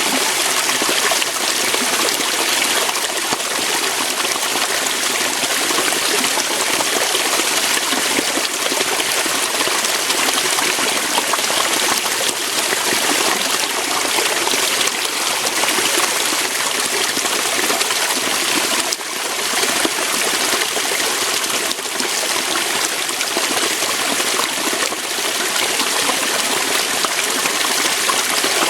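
Small waterfall, water flowing and splashing over rocks in a steady hissing rush with little deep rumble.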